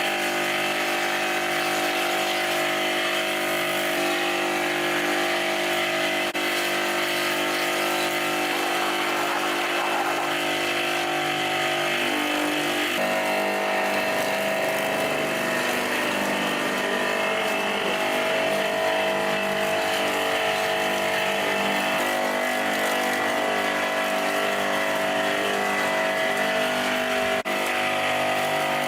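A motor-driven machine running steadily, its pitch shifting a couple of times.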